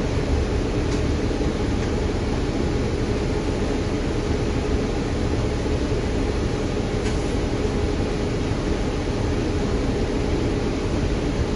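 Steady engine rumble and hum heard inside an MTA city bus, with an even hiss over it.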